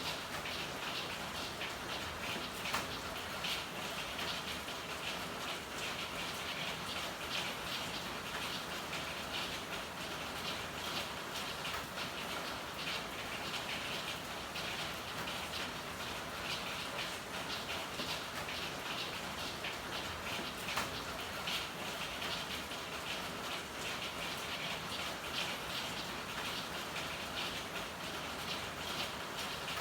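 Steady rain pattering as a dense mass of fine drops, with a couple of sharper single drips standing out.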